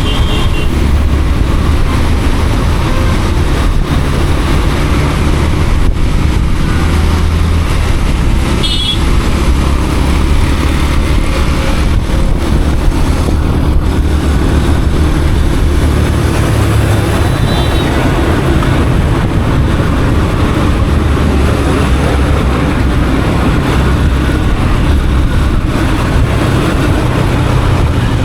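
Yamaha FZ motorcycle riding through traffic, heard from the rider's position: a steady low rumble of engine and wind. Short high beeps come near the start and again about nine seconds in.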